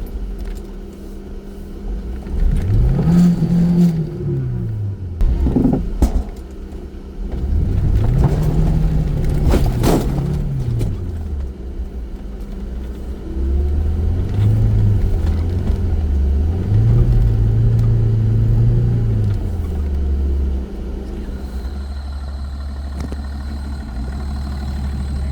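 Off-road vehicle's engine revving up and dropping back three times as it works through snow, with a few sharp knocks along the way, then settling to a steady low run near the end.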